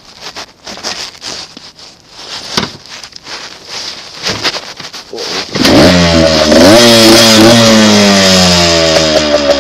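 Small dirt bike engine: quiet clicks and handling noises, then about five and a half seconds in the engine starts with a sudden loud rev. It keeps running with its pitch slowly dropping as the throttle eases off.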